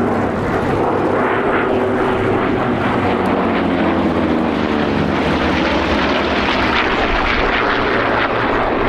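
Three Vought Corsair fighters' Pratt & Whitney R-2800 Double Wasp radial engines running loud and steady as the formation flies past, the engine pitch dropping about two to five seconds in as they pass.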